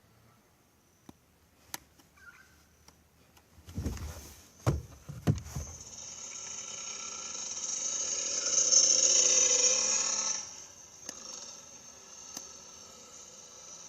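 Several heavy thumps, then an engine whine that builds for about three seconds and drops away sharply about ten seconds in.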